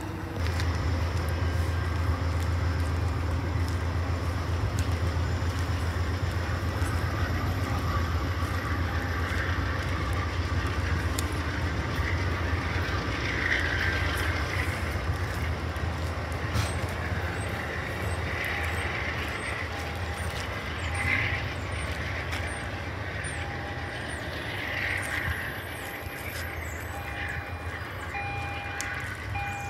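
An Amtrak passenger train pulling away, with a steady low rumble of the train running on the rails that slowly eases as it moves off. Near the end, a vehicle's reversing beeper sounds in evenly spaced beeps.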